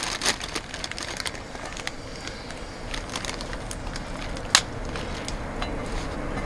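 Wood campfire crackling and popping irregularly, with one sharper pop about four and a half seconds in.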